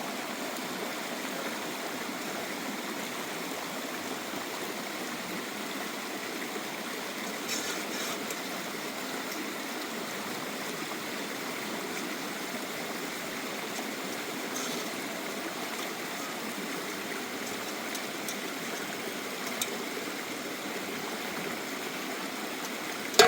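Stream water running steadily, with a few faint clicks over it.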